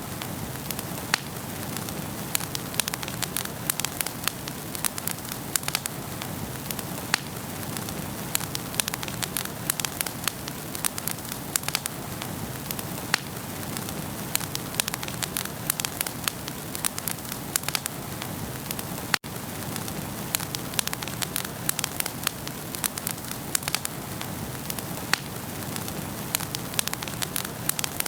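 Wood fire crackling in a fireplace: frequent sharp pops and snaps at irregular intervals over a steady soft hiss of flames, with a momentary dropout about two-thirds of the way in.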